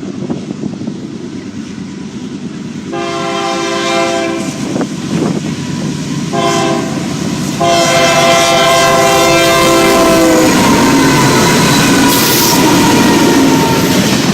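A locomotive horn sounds three blasts, long, short, then long, over the rumble of an approaching train. The train then passes loudly with the clatter of its wheels on the rails.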